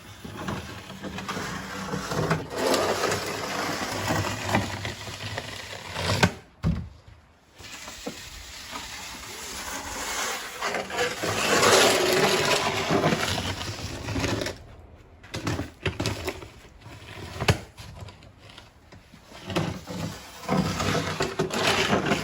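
John Deere X758 garden tractor's diesel engine running while it plows a pass through heavy snow, under uneven gusting noise that swells and drops out: blustery wind on the microphone.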